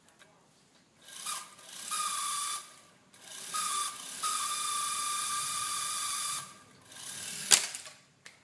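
Small electric motor of a model helicopter rotor whirring with a steady whine in three short runs, the longest about three seconds, with a sharp click near the end.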